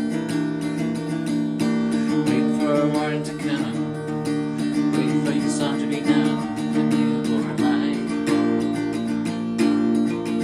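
Lo-fi folk music: acoustic guitar strummed in a steady rhythm, with a wavering higher melody line over it through the middle of the passage.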